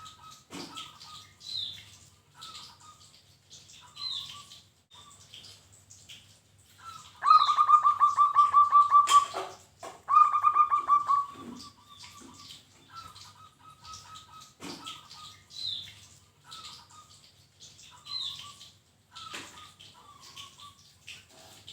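Zebra dove (perkutut) cooing: a loud, rapidly pulsed rolling series of about seven notes a second, heard twice around the middle, with softer short coos around it. Short high chirps from another small bird repeat every two to three seconds.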